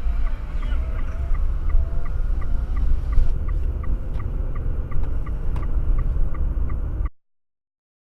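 Steady low road and engine rumble inside a moving car, with a regular high ticking about three times a second. The sound cuts off abruptly about seven seconds in.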